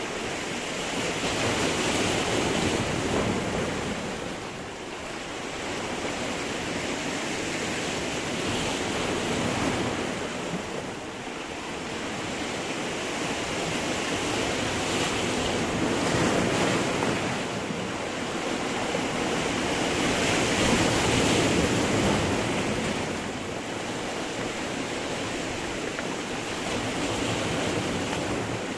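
Sea waves breaking and washing against rocks, a steady rush of surf that swells with each incoming wave about every six seconds.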